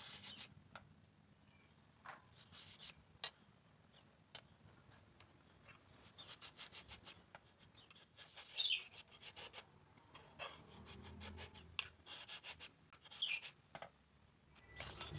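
Bamboo being worked by hand: light scraping and rubbing with many small clicks and taps. Short, high, downward-sliding bird chirps sound now and then throughout.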